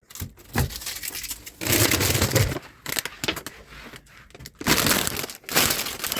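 Packaging being torn and crumpled, in several noisy bursts of a second or so.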